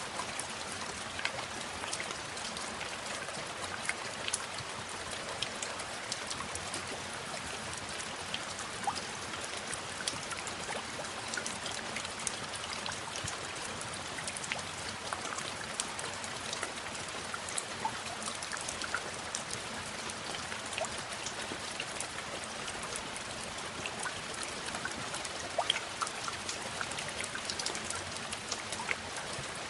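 Steady rain falling, with many small separate drops ticking and pattering close by.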